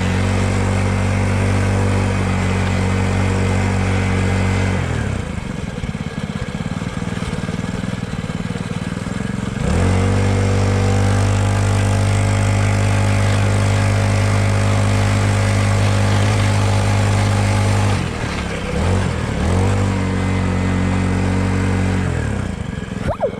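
Small dirt bike engine running steadily. Its revs drop away a few seconds in and pick back up about ten seconds in, then dip and recover twice more near the end.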